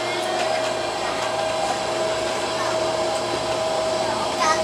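Cabin noise of an MTR CAF A-Train running through a tunnel, heard inside the car: a steady rumble with a high steady whine. Wheel flats strike so fast that their pounding blurs into a continuous helicopter-like throb.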